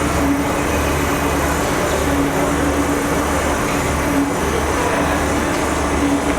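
CNC engraving machine running: a steady mechanical drone with a hum, and a tone that cuts in and out every second or two as it works.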